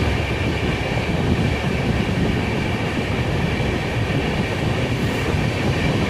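Sleeper coach of the Duronto Express moving along the track at night, heard from inside the coach: a steady rumble of wheels and running gear, with a thin steady high tone above it.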